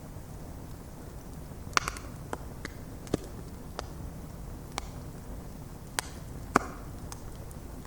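Bonfire of stacked logs burning: wood crackling and popping in sharp, irregular snaps over the steady low rumble of the flames. A loud pop comes about two seconds in and another near the end.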